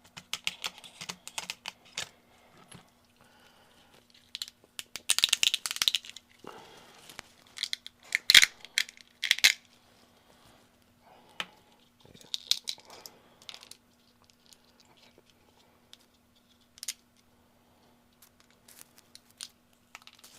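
Small 3D-printed resin parts being handled and trimmed at a workbench: irregular clicks, scrapes and rattles of hard plastic, busiest about five to six and eight to nine and a half seconds in, with one sharp click among them.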